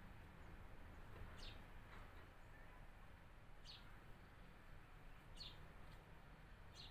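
Quiet outdoor ambience with a bird giving four short, high chirps that drop in pitch, about one every two seconds.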